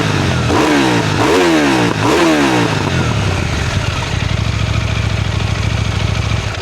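KTM 990 Duke twin-cylinder engine at operating temperature, revved in three quick throttle blips that rise and fall, then settling into a steady idle.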